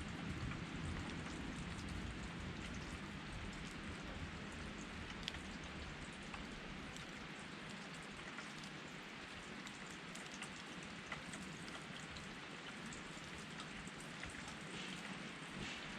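Campfire crackling with small scattered pops over the steady rush of a river.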